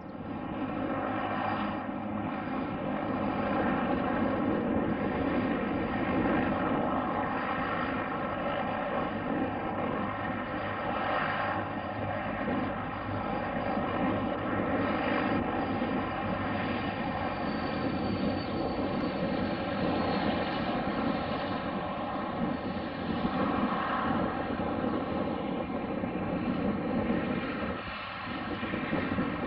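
Aircraft engine running steadily, with an even hum of many steady tones over a rushing noise; it cuts in suddenly at the start.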